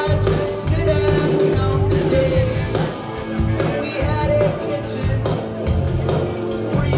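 Live rock band playing amplified through a club PA, with sung vocals over guitar, bass and drums.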